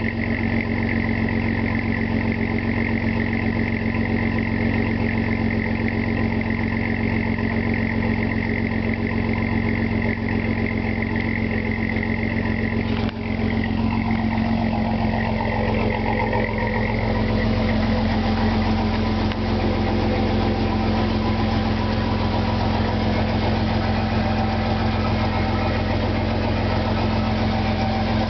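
A 2003 Chevy S10 ZR2's 4.3-litre Vortec V6 idles steadily through a Flowmaster 40 Series single-in, dual-out exhaust with a high-flow cat, warming up. A high steady whine over the idle stops about halfway through.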